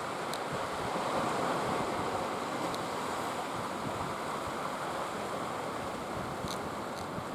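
Steady rushing wash of ocean surf, an even noise with no engine tone, with a few faint high ticks.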